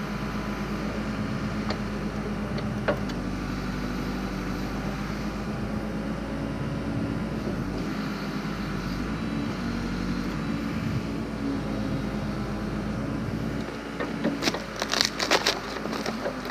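Backhoe engine running steadily under hydraulic load, its pitch shifting a few times as the splitter is worked. Near the end comes a burst of loud, sharp wood cracks and knocks as a log is split.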